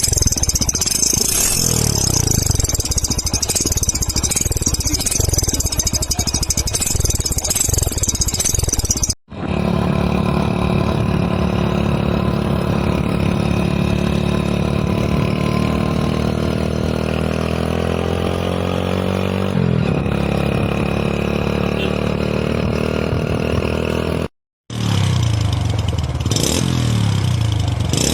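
Hero Splendor Plus's single-cylinder engine running through an aftermarket GCL silencer, idling and being revved, with a rise in pitch midway and a few sharp pops near the end. The sound cuts out briefly twice.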